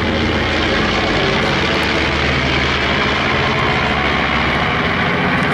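A B-25 Mitchell bomber's twin Wright R-2600 radial engines running at power as it flies its display, a steady loud propeller drone.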